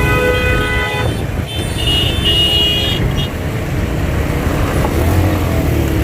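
Road traffic with vehicle horns: one horn held and stopping about a second in, then a second, higher horn sounding for about a second and a half, over a steady low rumble of engines and road noise.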